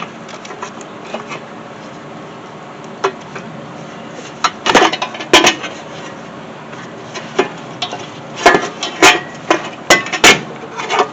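Battery casing being worked loose and pulled out of a car's engine bay: scattered knocks, clunks and clatter, coming in bunches about five seconds in and again near the end.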